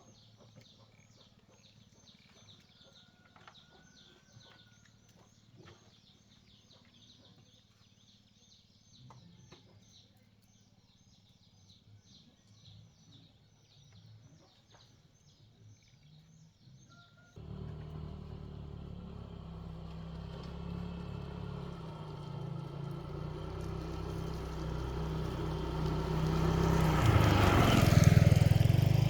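Faint repeated high chirps in near quiet; then about 17 seconds in, a motorbike engine starts running suddenly and grows steadily louder.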